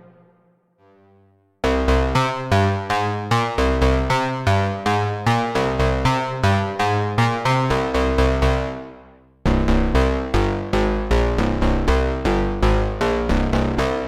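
Waldorf Pulse 2 analog monosynth playing a preset: a fast sequenced run of short, plucky bass notes, about four a second. The pattern fades out about eight or nine seconds in and starts again a moment later.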